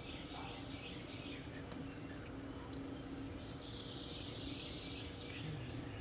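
Faint bird chirps, with a longer buzzy call a little past the middle, over a steady low hum.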